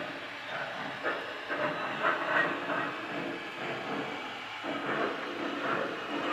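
Lionel Big Boy 4000 O-gauge model steam locomotive running, its onboard sound system giving a steady steam hiss over the rattle of its wheels on the track.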